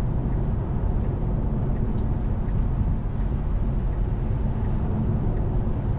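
Tesla Model 3's tyre and road noise while driving at traffic speed: a steady low rumble.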